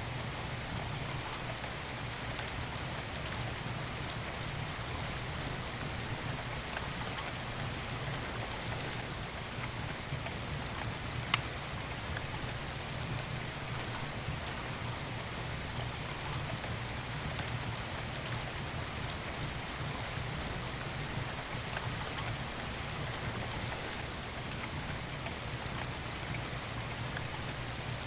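Steady rain falling on a surface, even and unbroken, with a single sharp pop about eleven seconds in.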